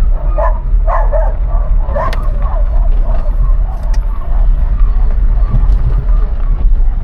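Steady low rumble of a VW Golf IV 1.6's engine and tyres on the road, with a dog barking several times in the first two or three seconds.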